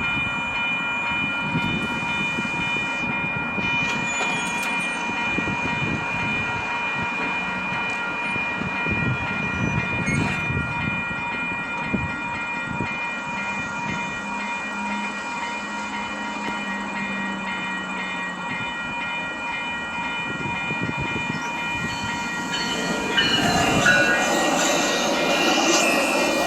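EXO commuter train passing, wheels rumbling and clattering over the rails, under a steady ringing of a level-crossing warning bell. The train gets louder about 23 seconds in as it draws closest.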